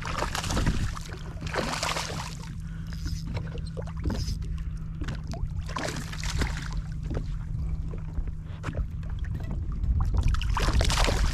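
Water sloshing and splashing around a fishing kayak, with small knocks and clicks of handling and a low rumble on the microphone. A steady low hum runs beneath and stops about eight seconds in.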